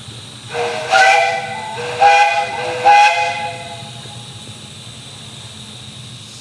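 Steam whistle of a 12-inch gauge live steam locomotive blowing, several notes sounding together, swelling loud three times in quick succession before fading. A steady hiss of steam runs underneath.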